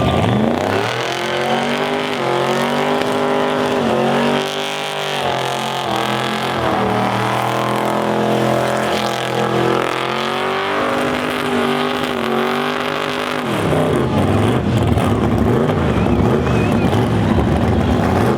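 Car engine held at high revs during a burnout, its pitch climbing quickly, holding with two brief dips, then breaking into a rougher, noisier sound near the end.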